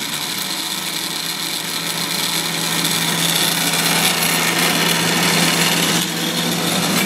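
1930s Delta DP220 drill press running at its top speed, its motor, belt and pulleys giving a steady whirring that grows slightly louder. There is play in the upper pulley.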